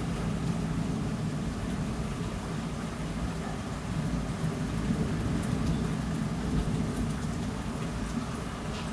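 Heavy thunderstorm rain pouring steadily, with a low rumble of thunder underneath.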